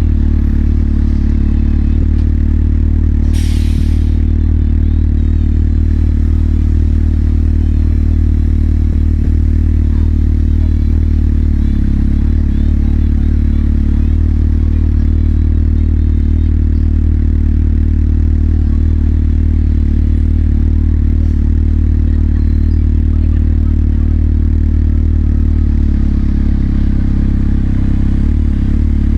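Motorcycle engine running steadily at one unchanging low pitch, as at idle, with a brief hiss about three and a half seconds in.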